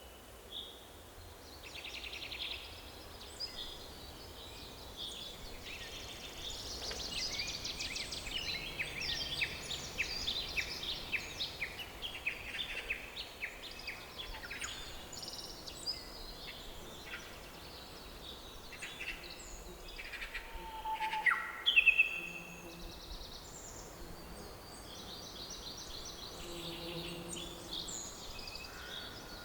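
Several songbirds singing and calling in a forest, with quick chirps and trills overlapping, thickest in the first half. A few louder calls come about two-thirds of the way through, over a faint steady background hiss.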